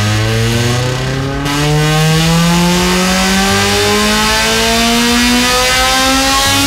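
Honda K20A four-cylinder engine in a dyno pull on a Dynapack hub dynamometer, its revs climbing steadily under load in one long rising pull.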